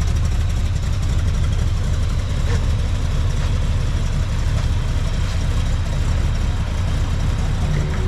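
A vehicle engine idling steadily, a deep, even rumble with no revving.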